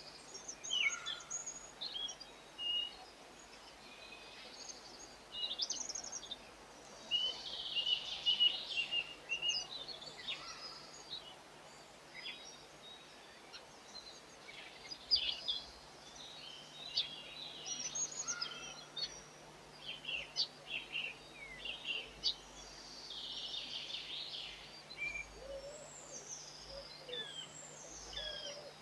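Small garden songbirds twittering and chirping in quick, varied high calls, some phrases overlapping, over a faint steady outdoor background.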